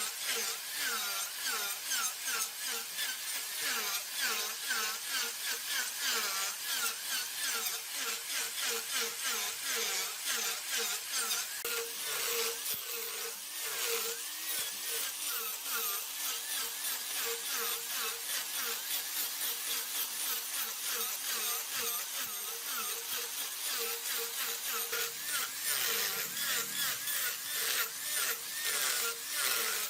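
Large woodworking lathe turning mahogany: a cutting tool shaving the spinning wood with a dense hiss that pulses in an even rhythm, over a steady machine hum.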